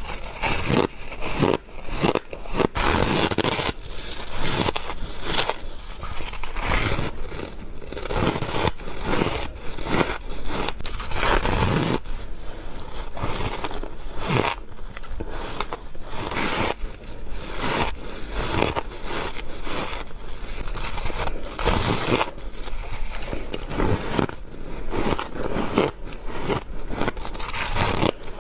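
Close-up biting and chewing of squeaky freezer frost: a dense, continuous run of crunches.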